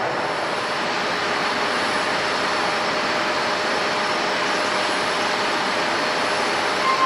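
Jet engines of a Japan Airlines Airbus A350, Rolls-Royce Trent XWB turbofans, running with a steady, even rushing noise and a faint high whine.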